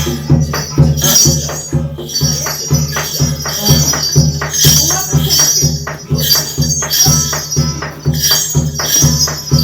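Korean shaman ritual (gut) percussion: a drum beating steadily at about three strokes a second, with cymbals clashing and metal jingling over it.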